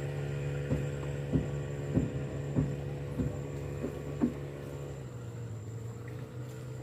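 Small boat's motor running steadily, then easing down to a lower pitch about five seconds in. Half a dozen dull thumps come over it in the first four seconds.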